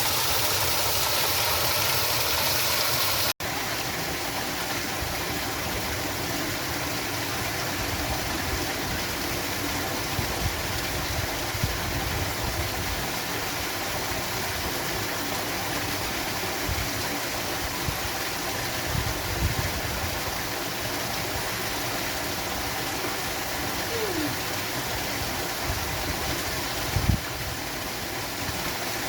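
Steady rush of flowing water from a stream or small waterfall, with a few low thumps now and then. The first three seconds or so are a hissier rushing sound with a faint hum, which cuts off abruptly.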